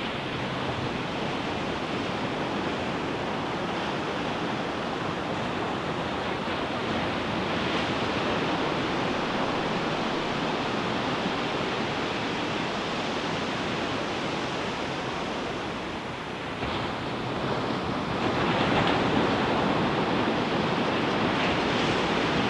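Ocean surf breaking and washing up the beach in a continuous rush. The waves swell louder about a third of the way in, ease off briefly, then build again toward the end.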